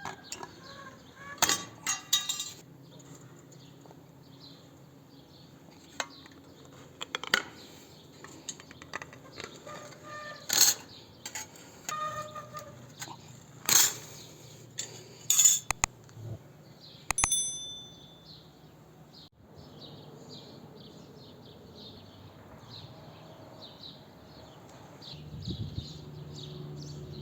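Metal parts and tools clinking and tapping at irregular intervals, about a dozen sharp strikes, one a little past halfway leaving a short high ring. A faint steady hum runs underneath.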